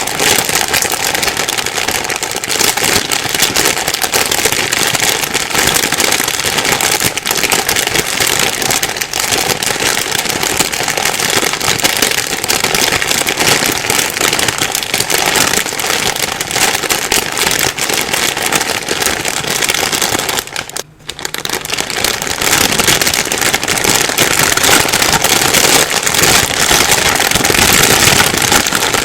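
Plastic bag being rustled and crumpled, a dense continuous crinkling full of small crackles. It breaks off for a moment about two-thirds of the way through, then resumes.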